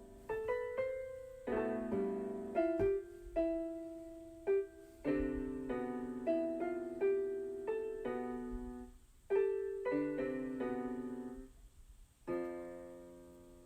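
Keyboard music played in piano style: a slow melody of struck notes and chords, each fading after it is played. It ends with a last chord about twelve seconds in that dies away.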